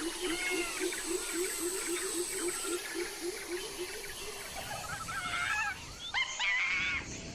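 Night-time animal chorus with several callers. A low call pulses about five times a second for the first four seconds or so, while higher chirping and warbling calls come and go and grow louder near the end. A steady high whine stops about three seconds in.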